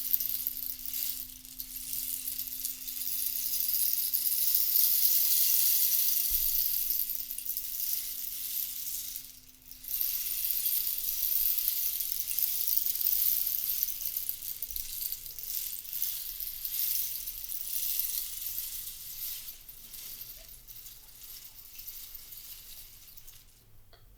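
A rattling, sizzling hiss like rolled beads or seeds, the kind of sound-healing percussion used in a sound journey. It swells and fades in long waves of several seconds, with a brief break about nine seconds in. A steady low hum-like tone runs underneath and fades out near the end.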